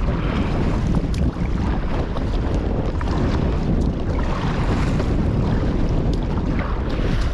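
Strong wind buffeting the microphone in a steady, loud low rumble, with water sounds and a few small knocks from the kayak.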